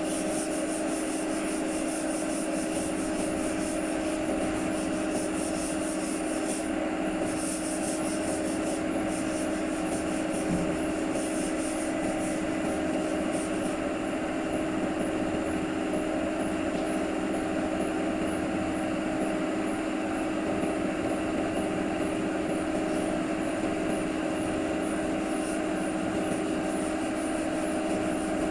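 A machine running steadily, with a hum held at one constant pitch over an even noise, and faint regular high ticks in the second half.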